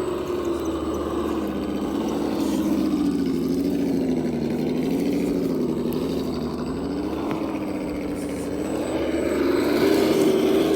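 Radio-controlled rock crawler trucks running, their motors giving a steady whine that wavers up and down in pitch with the throttle and grows louder near the end.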